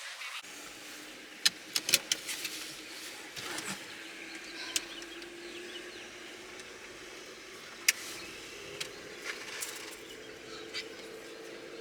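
A faint steady hum that slowly rises in pitch, broken by a few sharp clicks and snaps, the loudest clustered about one and a half to two seconds in and another near eight seconds.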